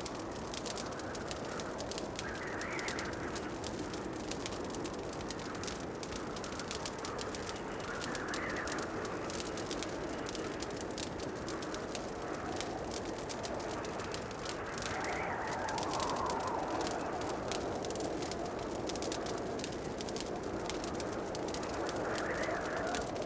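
Wood fire crackling in a fireplace: many small irregular pops over a steady soft rush, with gentle swells of sound every few seconds.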